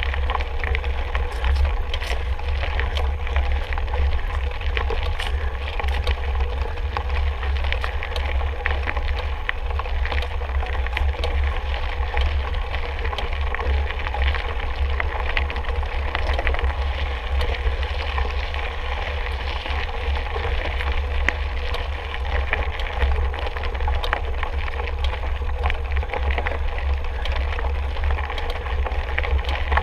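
Mountain bike rolling over a rough dirt and gravel trail: tyres crunching, with many small clicks and rattles from the bike. Under it runs a steady low rumble of wind buffeting the microphone.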